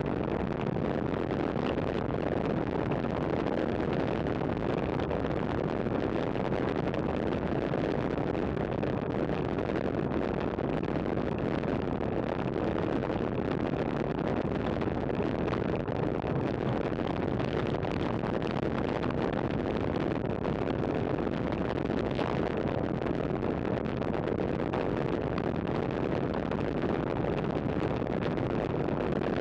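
Steady rush of wind and tyre noise from road bikes ridden at speed, with wind on the microphone.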